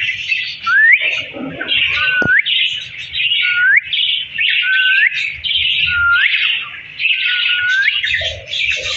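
Parrot whistling a short rising note over and over, about six times, over a steady background of chirping chatter.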